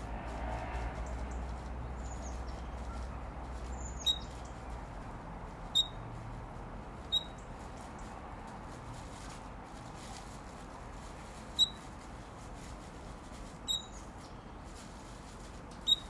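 Six short, sharp, high-pitched bird chirps, irregularly spaced, over a steady background hiss. A faint crinkle of plastic comes in the first second.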